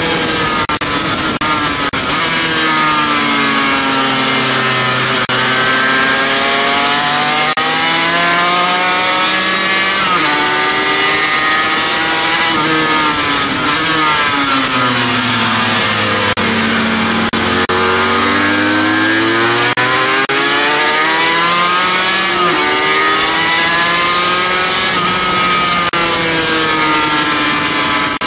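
Onboard sound of a sports motorcycle's engine at track speed, its revs falling and climbing again several times as it brakes for corners and accelerates out, lowest about two-thirds of the way through. A steady rush of wind runs underneath.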